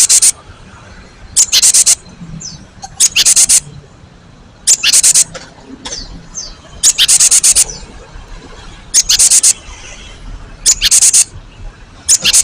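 Gelatik batu (cinereous tit) singing a loud, high, rapid phrase of several quick notes, repeated seven times about every two seconds. Faint calls of other birds sound between the phrases.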